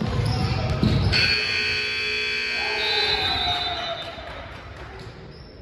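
Basketball dribbling thumps, then about a second in a gym scoreboard buzzer sounds, a steady multi-tone blare lasting about three seconds before fading; coming midway through the game, it likely marks the end of the half.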